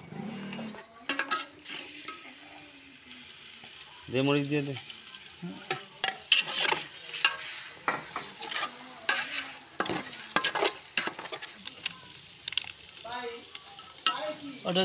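Sliced onions and green chilies being stirred and fried in an aluminium pot, with a sizzling hiss and frequent sharp clicks and scrapes. A short wavering pitched sound comes about four seconds in and again near the end.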